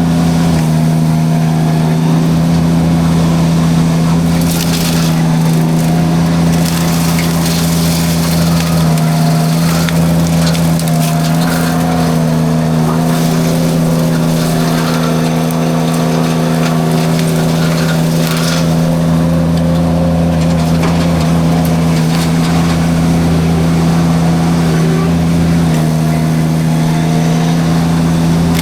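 Derette V1000 mini skid steer running at a steady drone while its forestry drum mulcher shreds brush, with scattered crackling and snapping of wood being chewed up.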